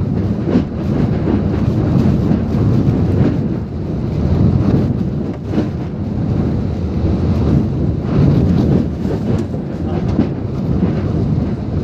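Typhoon wind and heavy rain, loud and gusting, with wind rumbling on the microphone.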